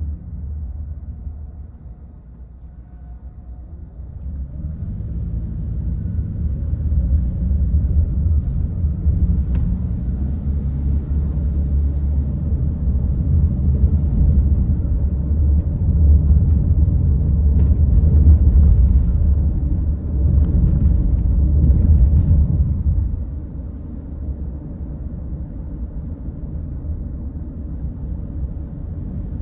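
Low rumble of a car driving, road and engine noise as heard from inside the car. It builds over several seconds, is strongest past the middle, and drops away quickly near the end.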